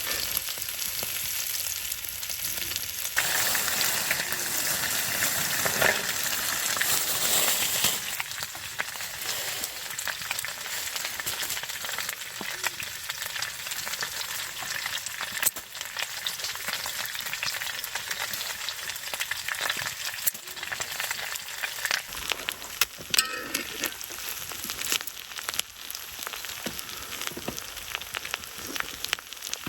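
Food frying in a hot pan, a steady sizzle dotted with small sharp pops of spitting fat. The sound shifts abruptly a few times.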